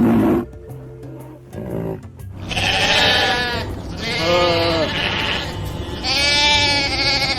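A sheep bleating three times, each call a wavering cry of about a second, over background music.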